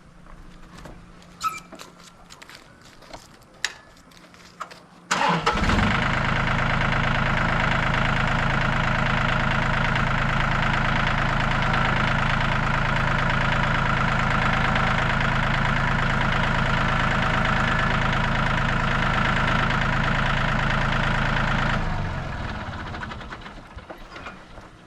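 An engine starts with a sudden jump in level about five seconds in and runs steadily and loudly at an even pitch for about sixteen seconds, then dies away over a couple of seconds. Before it starts, there are a few faint clicks and knocks.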